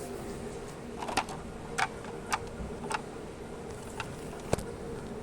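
Sharp plastic clicks and taps from a toy truck being handled, five or six of them spread over a few seconds, over a faint steady hum.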